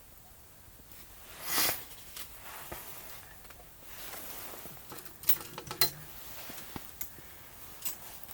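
A single loud brushing swish about a second and a half in, followed by scattered light clicks and taps, with a sharper double click near the six-second mark.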